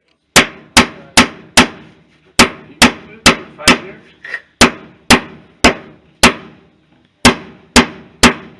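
Hammers striking as wooden floorboards are nailed down: a run of sharp, loud blows, about two a second, in short groups of three or four with brief pauses between.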